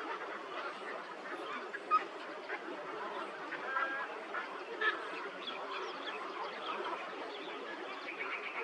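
A flock of birds calling all at once: a dense, continuous chatter of many overlapping short calls, with a few louder single calls standing out, one about two seconds in and others around four and five seconds in.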